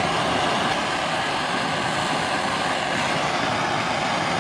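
Heat gun blowing steadily, warming a tight-fitting rubber hose so it will slide on.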